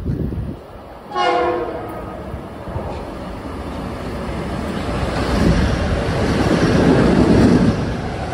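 A Metro-North commuter train sounds one short horn blast about a second in. Then the rushing noise of the train grows steadily louder as it approaches, peaks near the end and eases off slightly.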